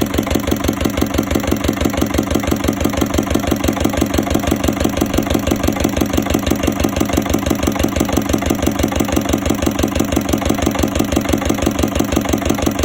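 Ruston engine running steadily at a slow idle, with an even beat of about five firing pulses a second.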